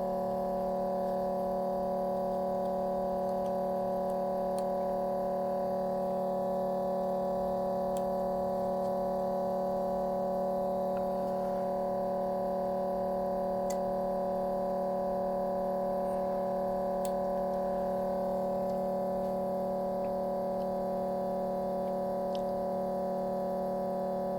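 A steady, unchanging hum made of several level tones, with a few faint ticks.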